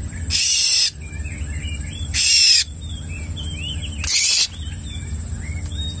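Small birds chirping and twittering, broken about every two seconds by a loud, harsh rasping burst of about half a second, four times in all.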